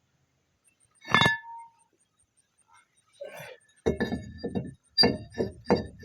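Hand tools clinking during strut work: one sharp metallic clink with a short ring about a second in, then a run of quick metallic knocks and clicks, about three a second, near the end.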